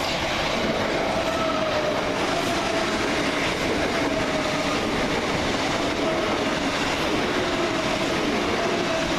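Two coupled Class 387 Electrostar electric multiple units running through the station on a fast service. Wheels on rail give a steady rumble with some clickety-clack, and a faint wavering tone runs through it.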